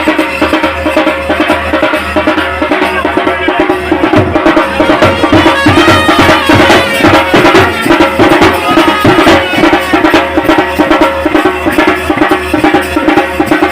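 Loud traditional Indian folk band music: fast, dense drumming under a steady, sustained melody.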